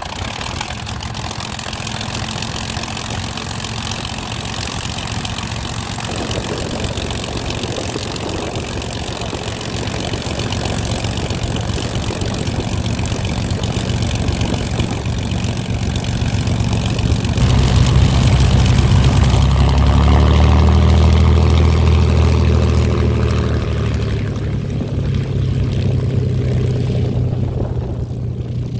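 Propeller aircraft piston engine running, growing louder about two-thirds of the way through with its pitch shifting, then easing off near the end.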